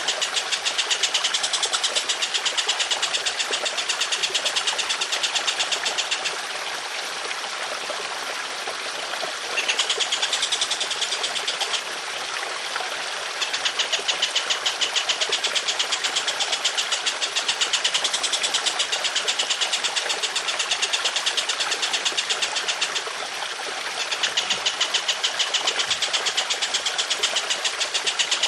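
A songbird giving long harsh rapid-fire bursts, many sharp notes a second run together for several seconds at a time, with short breaks three times, over the steady sound of trickling water.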